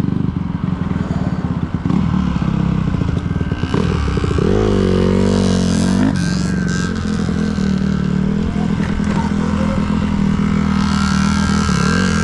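Small motorcycle engine running while riding, its pitch swinging up and down a few times about halfway through as the throttle opens and closes.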